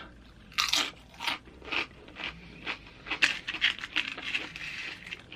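Close-up chewing of crunchy tortilla chips from loaded nachos: irregular crunches and mouth sounds.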